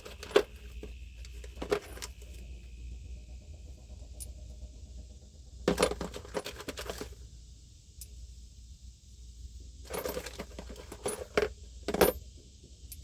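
Small metal objects clinking and rattling in several short clusters as they are rummaged through by hand.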